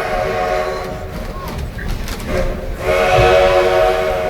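Steam locomotive whistle sounding a chord of several notes, from the Baldwin 2-6-6-2T Mallet tank engine hauling the train. One blast ends just after the start, a short toot comes about two seconds in, and a longer blast starts about three seconds in, over the steady rumble of the train running.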